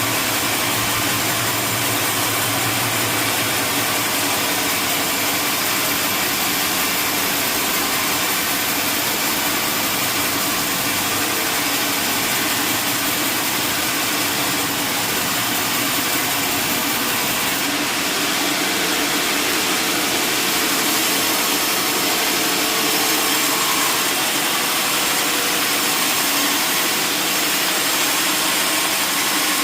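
Sawmill machinery running steadily, an even engine-like drone with a broad hiss; a low hum in the first few seconds drops away.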